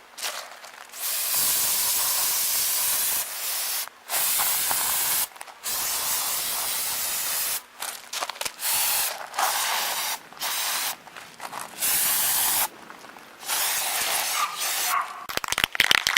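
Aerosol spray can hissing in a series of short and longer bursts, about eight in all, as metal brackets are sprayed. A quick run of clicks or crackles comes near the end.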